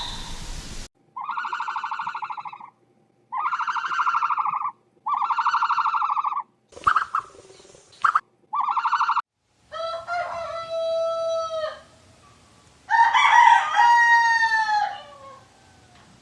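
Rooster crowing twice, each crow a long call, the second falling in pitch at its end. Before the crows come three short buzzy bird calls and a few briefer calls.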